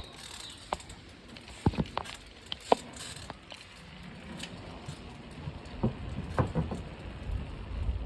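A bicycle being ridden: scattered sharp clicks and rattles over a low rumble, with the rumble building in the second half.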